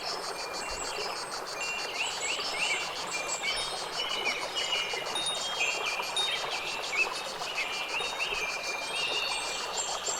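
Several birds chirping and whistling in short, overlapping notes, over a fast pulsing high trill and a steady soft hiss of background noise.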